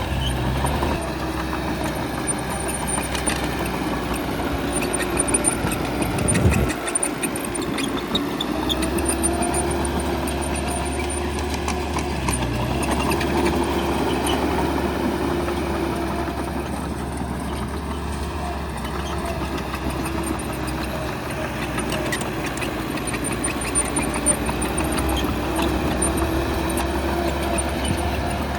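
Bulldozer's diesel engine running steadily, with scattered clanks and knocks from the machine at work and a brief louder surge about six seconds in.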